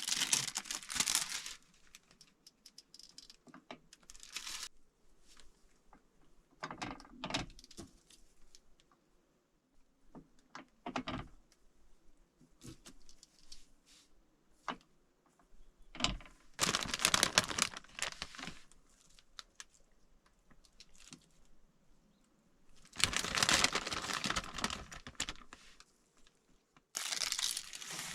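Plastic packaging crinkling and tearing in repeated bursts, the longest lasting about two seconds, with scattered small clicks and taps between them.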